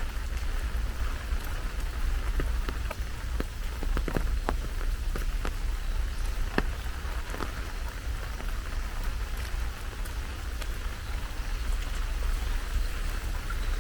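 Heavy rain falling steadily, with a cluster of sharp, separate drops and drips landing close by between about two and seven seconds in, over a steady low rumble.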